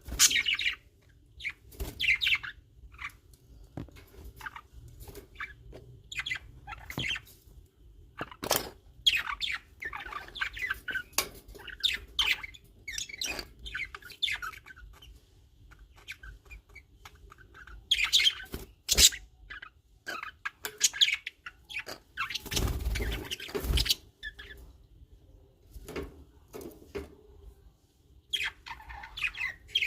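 Baby birds chirping in many short, irregular calls, with a few sharp clicks and a low thump about two thirds of the way through.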